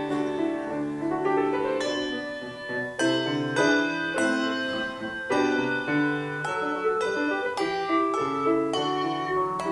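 Trio of handbells ringing a carol arrangement: chords and melody notes struck in a steady, lively rhythm, each note ringing on after it is struck.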